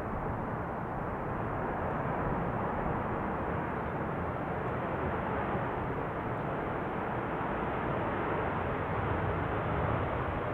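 Steady, even rumble of jet aircraft engines at an airport, with no rise or fall.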